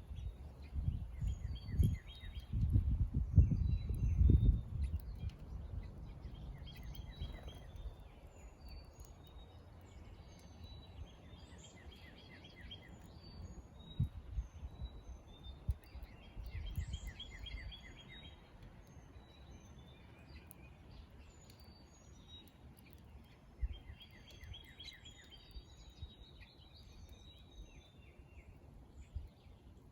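Several songbirds singing, overlapping repeated trills and high chirps. A low rumbling in the first few seconds is the loudest sound, returning briefly twice later.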